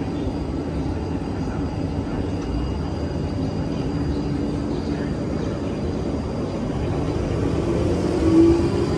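South Western Railway electric multiple-unit train pulling out of the platform: a steady rumble of wheels and running gear with a low motor hum that rises in pitch near the end.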